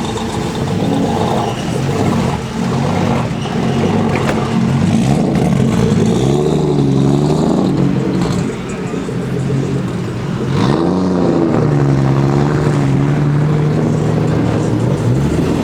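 Car engine idling with the throttle blipped, its pitch rising and falling in a couple of revs about six seconds in and again near eleven seconds, then settling back to a steady idle. Crowd chatter underneath.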